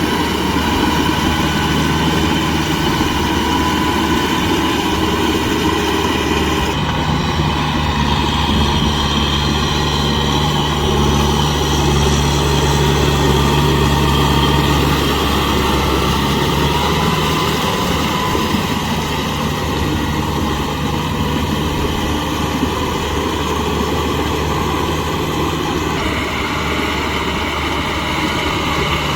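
Kubota M6040SU tractor's diesel engine running steadily with a rotavator, with a steady whine above the engine note. The sound changes abruptly about seven seconds in and again near the end.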